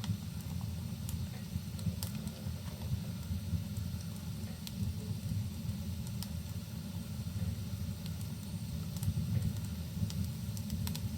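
Crackling fireplace fire and rain: scattered sharp pops and snaps at irregular intervals over a steady low rushing noise.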